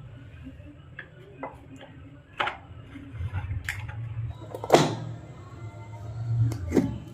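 Scattered clicks and knocks of metal fan parts being handled, about a dozen, the loudest a sharp knock near the middle, over a steady low hum.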